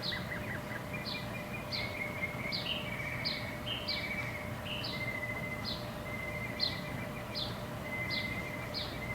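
Birds chirping: a short high note repeats about every half second over lower trilling notes, above a steady low background rumble.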